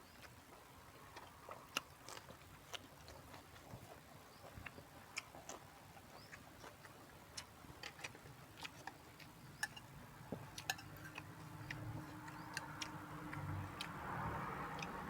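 Eating sounds: scattered sharp clicks and crunches of chewing fresh vegetables and utensils tapping, with a louder rustling noise building in the last few seconds.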